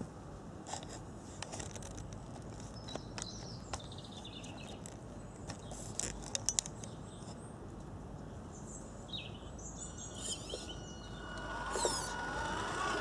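Birds chirping over steady outdoor background noise, with a few sharp clicks about six seconds in. Near the end a steady high whine comes in and the sound grows louder.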